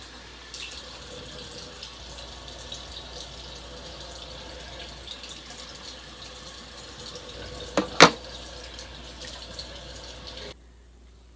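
Water running steadily from a tap, shut off suddenly near the end. Two sharp knocks sound close together about eight seconds in.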